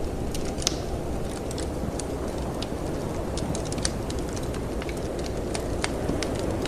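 Wood fire crackling in a fireplace, with irregular sharp pops and snaps, over the steady low rushing of snowstorm wind.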